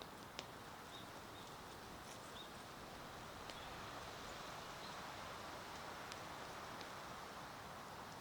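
Wood fire crackling: scattered sharp snaps and pops of burning wood over a steady soft hiss, the sharpest pops in the first half-second. Faint short high chirps come now and then.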